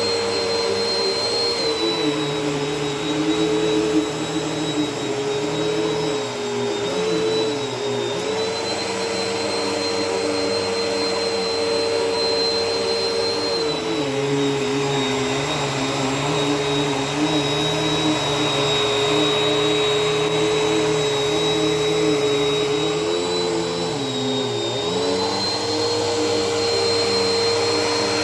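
Bissell vacuum cleaner running steadily on a carpet, its motor whine dipping slightly in pitch a few times.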